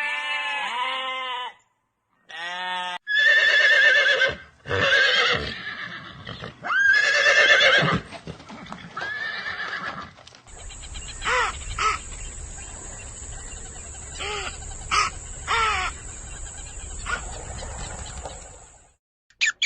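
A run of farm animal calls from several animals in turn: loud wavering calls in the first half, then short sharp calls over a steady hiss and low hum from about ten seconds in.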